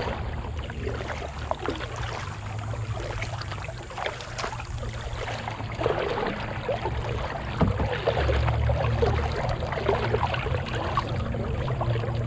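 Kayak paddling: the paddle dips and splashes in the water in irregular strokes, over a steady low rumble.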